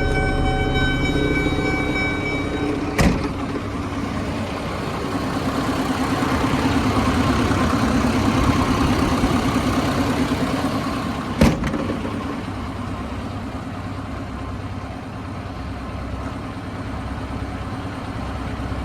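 Isuzu diesel engine of a GMC TopKick C7500 truck running steadily, growing a little louder for a few seconds in the middle. A steady electronic warning tone fades out about two seconds in, and two sharp knocks come at about three seconds and near the middle.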